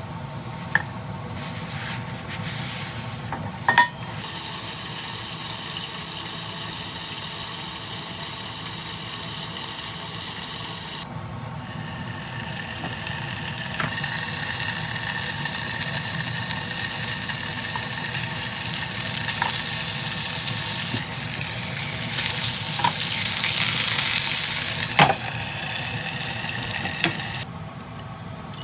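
Pork belly (samgyeopsal) sizzling and frying in a pan, a steady hiss with occasional small clicks and taps of utensils.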